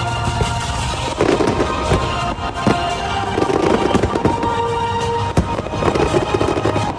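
Aerial fireworks bursting: a run of sharp bangs at irregular intervals with patches of crackling, over music playing throughout.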